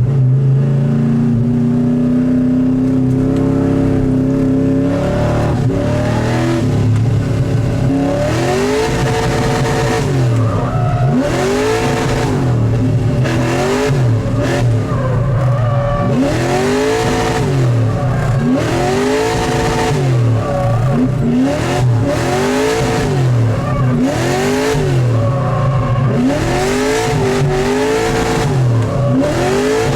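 An LS3 6.2-litre V8 in a Miata, held at a steady note for a few seconds, then revving up and falling back over and over, every second or two, while drifting, with bursts of tyre squeal.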